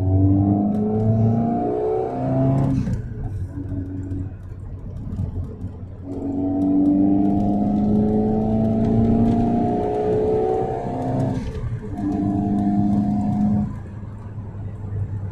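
1999 Fiat Coupé's 1.8-litre 16-valve four-cylinder engine pulling under acceleration, its note climbing in long pulls. It cuts off briefly twice, about three seconds in and again past eleven seconds, then eases off near the end.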